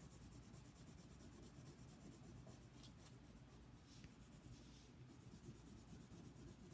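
Colored pencil shading on paper, a faint, soft scratching of quick strokes.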